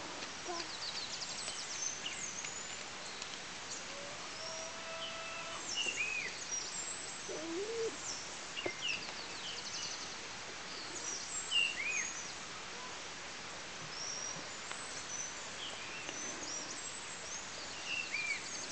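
Birds chirping and calling in short, scattered whistled notes, some rising and falling in pitch, over a steady outdoor background hiss.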